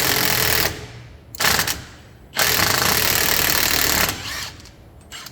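Impact wrench hammering in three bursts, a short one at the start, a brief one about a second and a half in and a longer one of nearly two seconds, breaking loose the sway bar fasteners.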